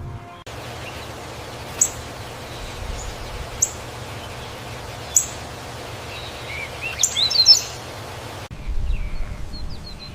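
Bird chirping: single short, high chirps about every second and a half over a steady outdoor hiss, then a louder quick cluster of chirps near the end.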